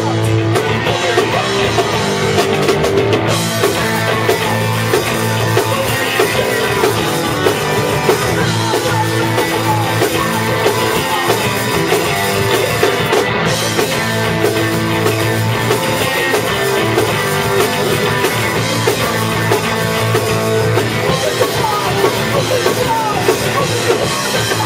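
Punk rock band rehearsing at full volume: drum kit driving under the band's instruments, with some singing.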